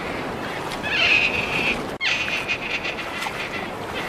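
An otter giving a high-pitched squeal, about a second in and lasting under a second, over a steady background hiss; fainter squeals follow.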